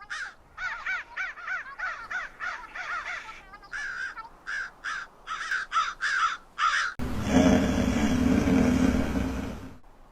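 Crows cawing in quick repeated calls, then a loud rushing noise about seven seconds in that lasts about three seconds and cuts off abruptly.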